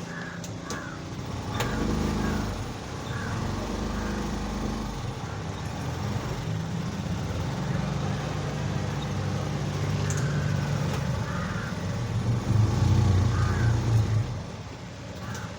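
Motorboat engine running steadily with a low drone, getting louder for a couple of seconds near the end.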